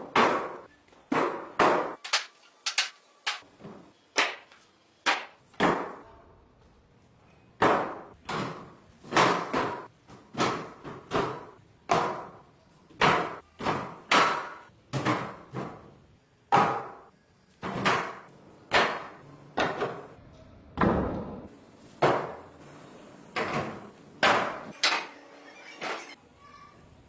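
Repeated sharp knocks of hard objects striking, about one to two a second in an uneven rhythm, with a couple of short pauses.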